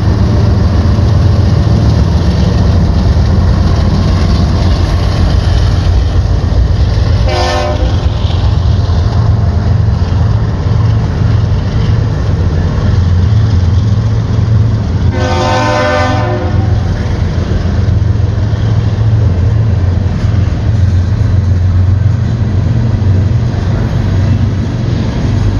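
BNSF freight train passing close by: diesel locomotives running with a steady low rumble, then empty tank cars rolling past. The locomotive horn sounds a short toot about seven seconds in and a longer blast around fifteen seconds in.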